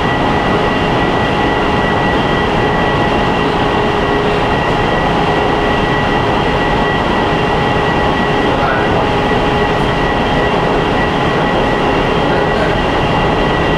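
Wuxi Metro Line 1 train running through an underground tunnel, heard inside the carriage: a steady, loud rush of wheels on rail and air, with constant high whining tones over it.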